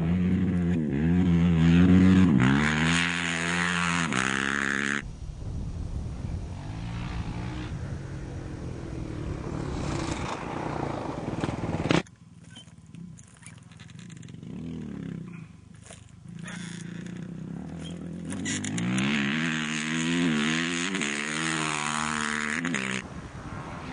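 Racing engines of rally motorbikes and quads revving hard and shifting gears as they race past, the pitch climbing and dropping with each shift. The sound changes abruptly several times between louder and fainter passes, loudest in the first few seconds and again near the end.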